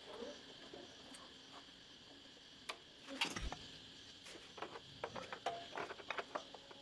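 A series of light clicks and knocks, with a louder clatter about three seconds in and quicker clicking near the end, over a faint steady hum.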